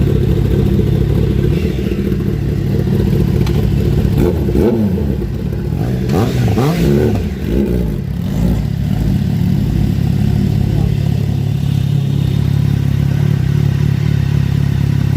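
Motorcycle and highway traffic engines running steadily. About four to eight seconds in, engine notes sweep up and then down as vehicles pass by.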